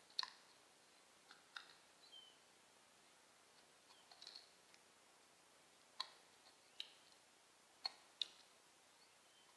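Faint, sharp clicks and a few brief high chirps from a blue jay and a starling, scattered irregularly with gaps between, including one short sliding note about two seconds in.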